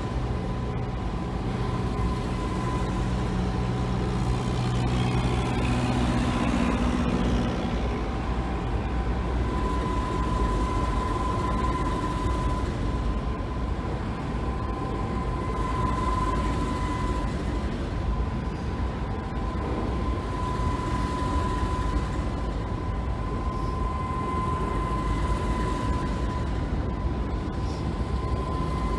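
Aurizon container freight train rolling past over a bridge: a steady rumble of wagons, with a high steady whine that swells and fades several times. A low drone is also heard in about the first seven seconds.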